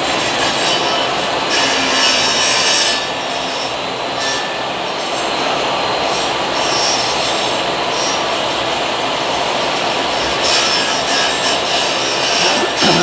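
Power tool cutting a round wooden disc, running steadily with two harsher, brighter stretches, one a couple of seconds in and one near the end.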